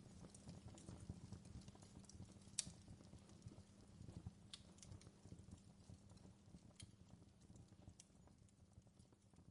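Near silence: faint, irregular clicks and taps over a low steady hum.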